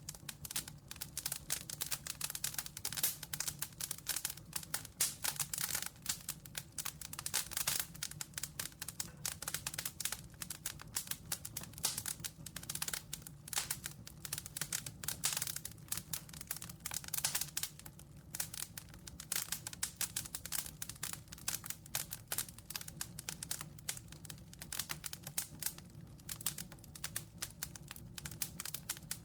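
Wood fire crackling, with a dense, irregular run of sharp pops and snaps over a low, steady rumble of flame.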